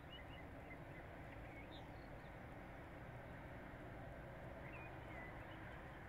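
Faint, distant small-bird chirps: a few short, thin calls in small clusters near the start, around two seconds in and again near the end, over a steady low background hum of outdoor noise.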